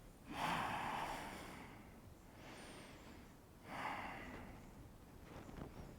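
A person breathing audibly while holding a yoga pose: two long, airy breaths about three and a half seconds apart, the first the louder.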